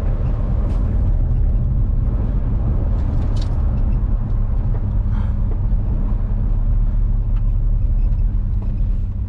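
A car driving, heard from inside the cabin: a steady low engine and road rumble that eases slightly near the end.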